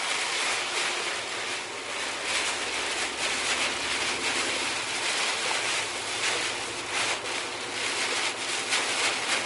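Heavy rain pelting the windshield and cab of a Volvo VNL 860 semi truck, heard from inside the cab while driving on a wet highway: a steady, dense hiss with many small patters of drops, over tyre and road noise.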